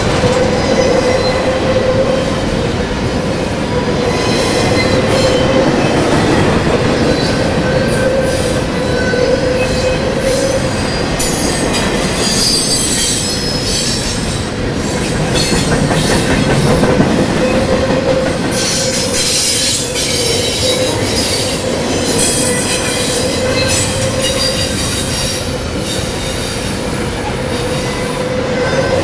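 Double-stack container train's well cars rolling past close by: a steady rumble and clatter of wheels on rail with a constant ringing wheel tone. Higher-pitched wheel squealing swells about a third of the way in and again around two-thirds through.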